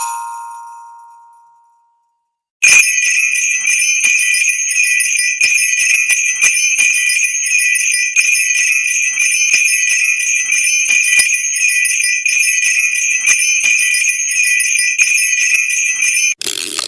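Sleigh bells jingling in a steady, continuous shake, starting suddenly after a moment of silence. Before them, a ringing chime tone fades out over the first two seconds, and a brief noisy burst cuts in near the end.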